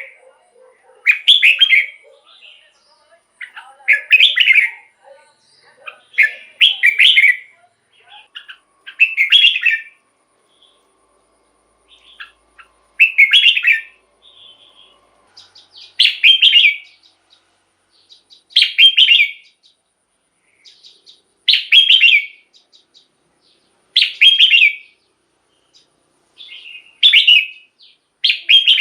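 Red-whiskered bulbul singing: about ten short, loud, chirpy song phrases, one every two and a half to three seconds.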